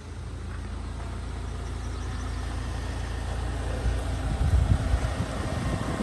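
Mahindra XUV700 engine starting by remote command from the phone app, then idling steadily.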